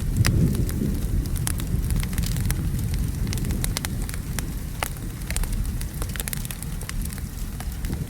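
Wood fire crackling with sharp, irregular pops, over steady rain and a continuous low rumble of distant thunder.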